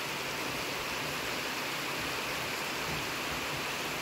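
Rain falling in sunshine (a sun-shower): a steady, even hiss.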